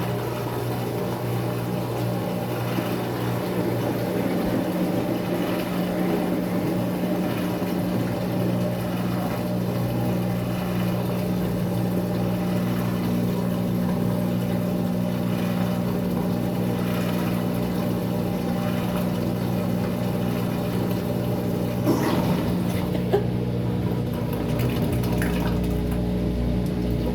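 Maytag MVWX655DW1 top-load washer running its tub-clean cycle: a steady motor and pump hum with water moving in the tub. Two short knocks come a little past two-thirds of the way through.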